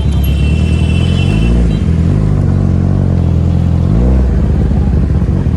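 Kawasaki ZX-10R superbike's inline-four engine running, its pitch dropping about a second in and climbing again near four seconds as the revs change.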